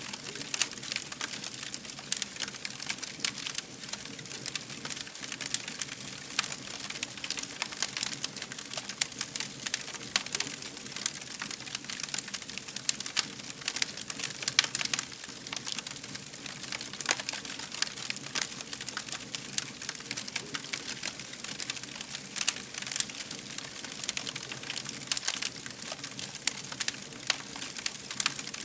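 Fire crackling: a steady stream of sharp pops and snaps over a soft hiss.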